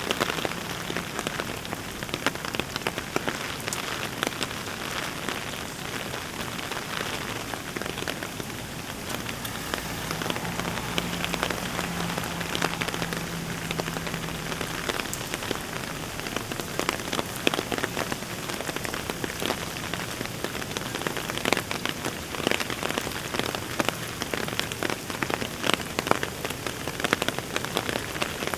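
Heavy rain falling, with many sharp, close drop ticks throughout. A faint low hum comes in about ten seconds in and stops about five seconds later.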